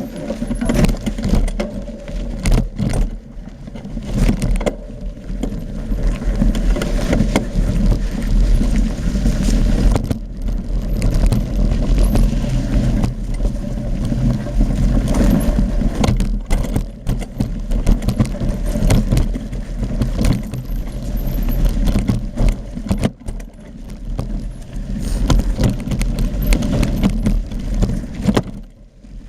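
Mountain bike ridden over a rough dirt trail: a steady low wind rumble on the microphone with the bike's frame, chain and parts rattling at every bump. It eases off briefly near the end.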